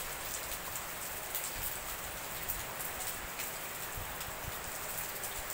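Heavy rain falling steadily onto wet paving and standing water: an even hiss with many small, sharp drop ticks.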